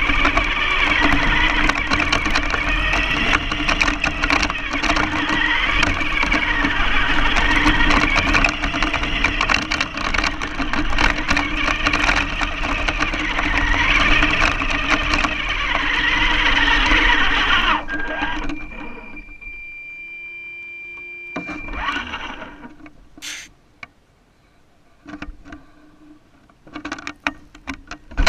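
RC car's motor and gears whining loudly as it drives, pitch rising and falling with the throttle over rattly, crackly running noise. It cuts off about 18 seconds in, leaving only faint tones and a few scattered knocks.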